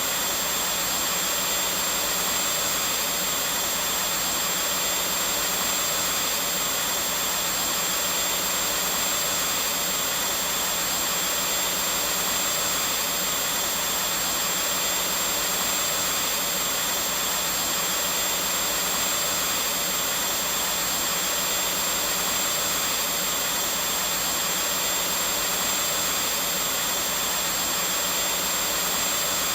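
Vacuum cleaner running steadily at a constant pitch and level, an even hiss with a thin high whine on top.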